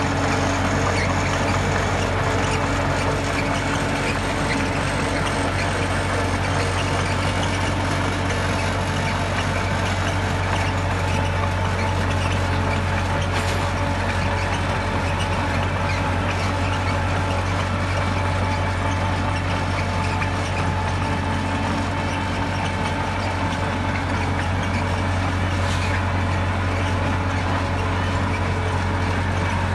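Heavy diesel engine of earthmoving equipment running steadily with a deep, even hum. Two faint sharp clicks come about halfway through and again near the end.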